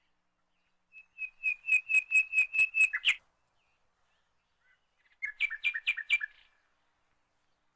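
A bird singing two phrases: a run of about nine quick repeated whistled notes ending in a downward slur, then, after a pause, a shorter burst of about five chirps.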